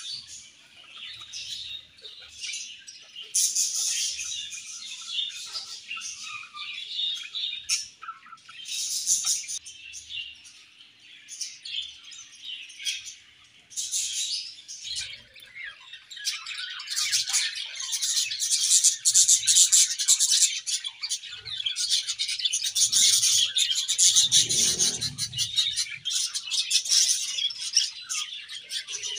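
A colony of budgerigars chirping and warbling together without pause, growing louder and busier about halfway through.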